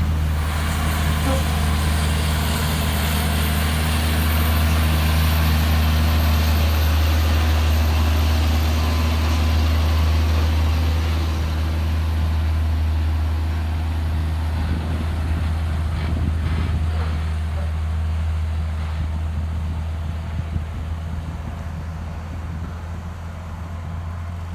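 Heavy truck engines labouring up a steep climb, a steady deep drone with road noise that slowly fades over the second half as the trucks pull away.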